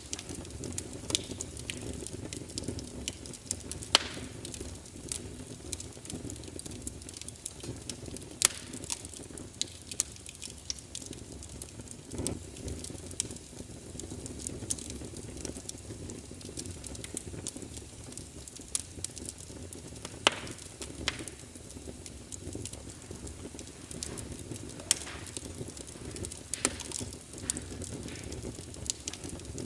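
Fire burning in a fireplace: a steady low rumble with frequent irregular crackles and a few sharper, louder pops.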